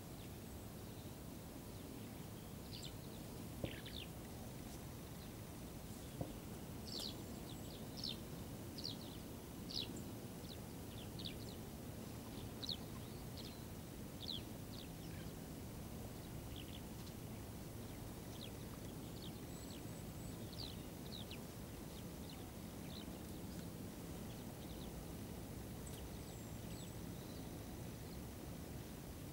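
Small birds giving short, sharp, downward-sweeping chirps, a run of them through the first half and a few more later, over faint steady outdoor background noise.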